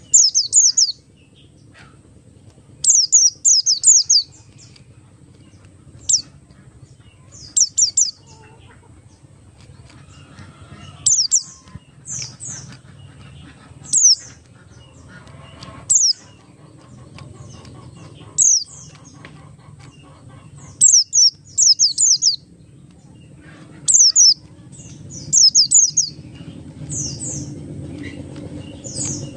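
Pleci buxtoni white-eye singing in short repeated bursts of very high, rapid falling notes, a burst every second or two, over a faint low hum.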